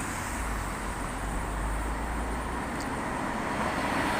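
City street traffic: a steady hum of passing vehicles with a low engine rumble that eases off about two and a half seconds in.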